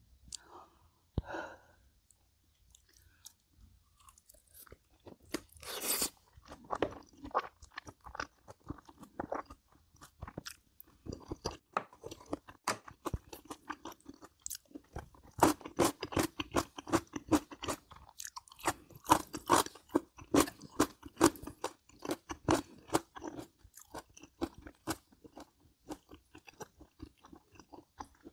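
Close-miked chewing and crunching of crisp food, mukbang-style: crunches start sparse and grow dense and loud after about ten seconds, with a short pause in between.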